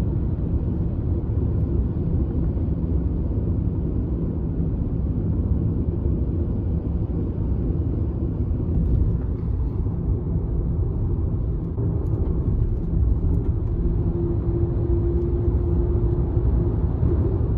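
Steady low rumble of a moving vehicle, with a faint steady hum running through it.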